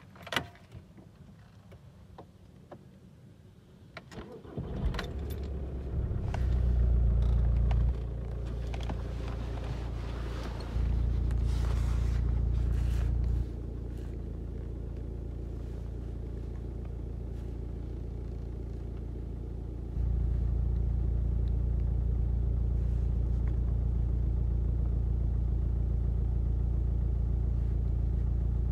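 A few clicks, then the Audi's 2.0-litre four-cylinder diesel engine cranks and starts about four to five seconds in, and settles to a steady idle. It starts now that the immobiliser has been switched off in the EDC16 engine ECU. The running sound jumps abruptly louder and quieter several times.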